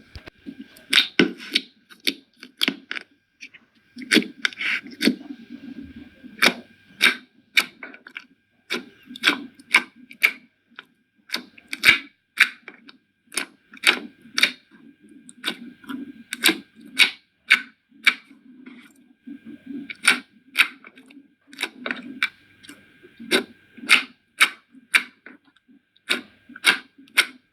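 Slime being squeezed and worked by hand, giving off sharp clicks and pops about two a second in an irregular rhythm.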